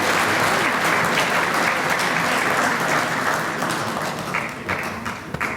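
Audience applauding, the dense clapping thinning out to a few scattered claps near the end.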